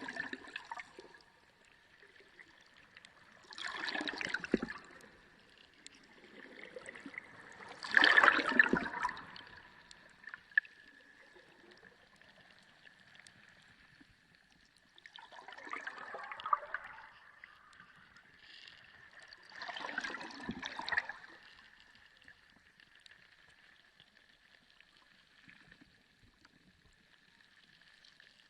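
Sea water heard underwater, sloshing and gurgling in five surges a few seconds apart, the loudest about eight seconds in. A faint steady high tone runs underneath.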